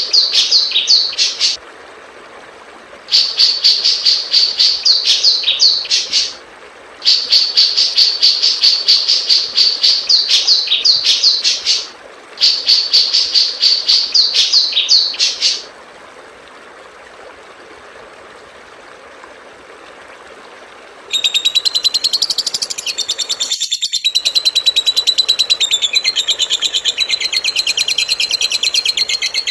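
Recorded songbird song of the kind used as masteran (tutor song for cage birds): four bouts of fast, evenly repeated high chirps, each a few seconds long, over a steady background hiss. After a pause of several seconds a different bird's song starts, a dense, very high, rattling stream of notes.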